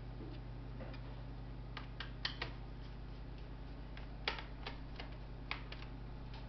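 Scattered light clicks and taps of small hard parts being handled during a laptop teardown, a few sharp ones standing out, over a steady low hum.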